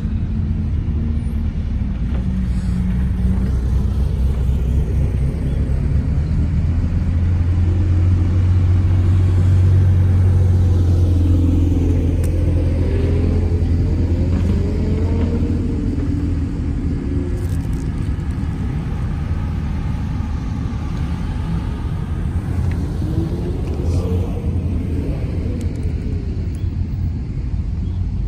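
Sports car engines rumbling at low speed as several cars crawl past one after another, loudest about a third of the way through. The engine note rises and falls briefly about halfway in and again near the end.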